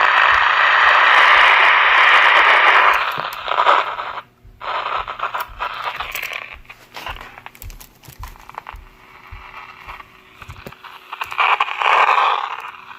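AM radio being tuned between stations: a loud hiss of static that drops off abruptly about three seconds in, then quieter crackling and scratchy noise as the dial moves, with a second burst of hiss near the end.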